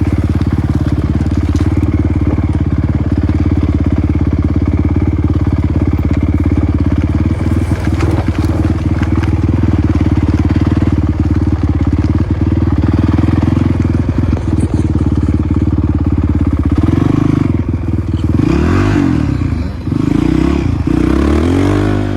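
Motocross bike engine running at a steady speed, then revving up and down several times near the end.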